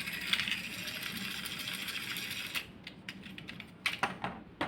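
Battery-powered toy locomotive's small electric motor and plastic gears whirring with a fast rattle, stopping abruptly about halfway through; a few light plastic clicks follow near the end.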